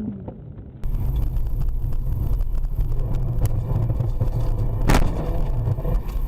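Car driving: a steady low rumble of engine and road, with one sharp knock about five seconds in.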